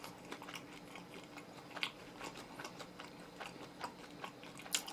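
Quiet close-miked chewing of moist oven-roasted chicken: soft wet mouth sounds with scattered small clicks, one a little louder about two seconds in.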